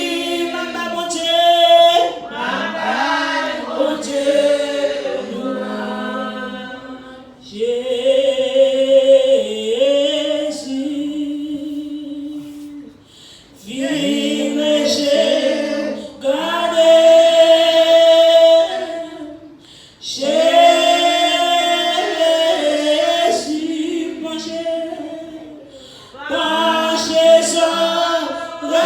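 A church congregation singing a worship song together without instruments, in sung phrases of a few seconds with brief breaks between them.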